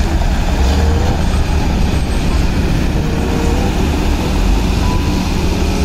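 Heavy tanker truck's diesel engine running hard under load as it drives through deep mud, a loud, steady, low drone that holds without a break.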